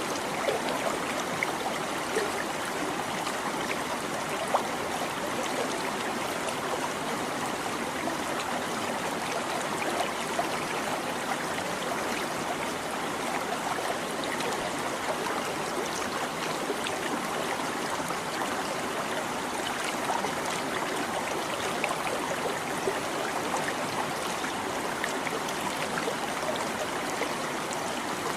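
Small stream babbling and trickling over stones, a steady rush of water with many small quick splashes.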